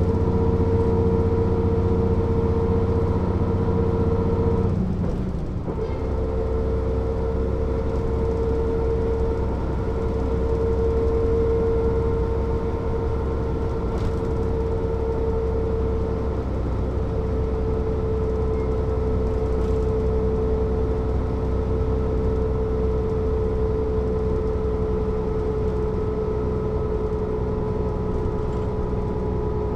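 Mercedes-Benz O 407 bus driving, its diesel engine running with a steady whine over the rumble. About five seconds in the sound dips briefly and the whine cuts out for a moment, then the engine runs on steadily at a lower note.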